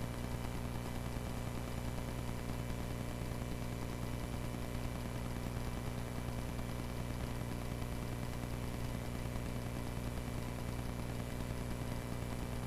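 Cessna 140A's engine running at a steady, unchanging speed, heard from inside the cockpit.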